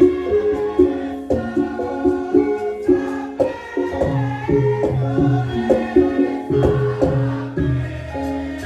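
Javanese gamelan music accompanying a lengger dance: quick runs of struck, ringing pitched notes over a steady low beat, with a voice singing.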